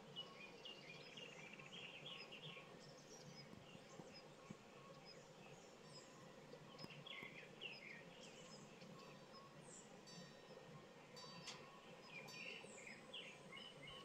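Faint birdsong at dusk: short chirping calls come in a few clusters, with a rapid run of repeated high notes in the later part, over a low, steady background hum.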